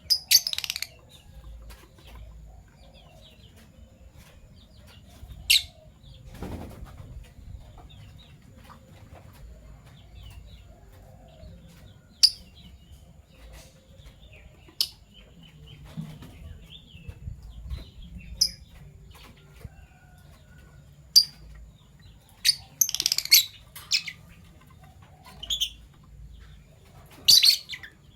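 Fischer's lovebirds giving short, shrill, high-pitched calls every few seconds, with a quick run of them about four-fifths of the way in, over soft twittering chatter.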